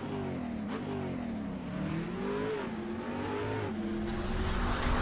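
Car engine revving in several short blips, its pitch rising and falling each time, getting louder near the end.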